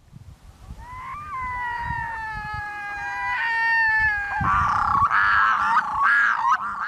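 A loon calling: a long, drawn-out wail that steps up slightly in pitch about a second in, then slowly sags for about three seconds. It is followed by a louder, rapidly wavering warbling call.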